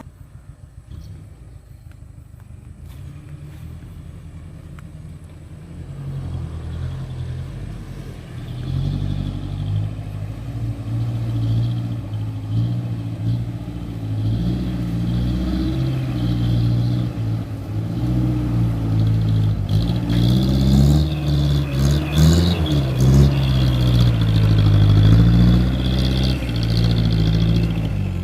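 Diesel engine of a Mitsubishi Canter dump truck, idling quietly at first, then from about six seconds in revving up and working hard under load. Its pitch steps up and down as the revs change.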